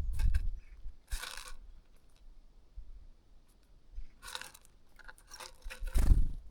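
Birds feeding close to the microphone: crunching and rustling as they peck at food, in two short noisy bursts about a second in and about four seconds in, with heavy low thumps at the start and near the end.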